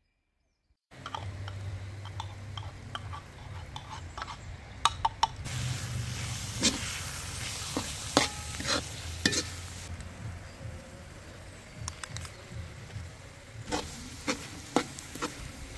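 Chopped herbs frying and sizzling in a metal pot while a metal spoon stirs and scrapes them, knocking against the pot now and then. The sizzling starts about a second in.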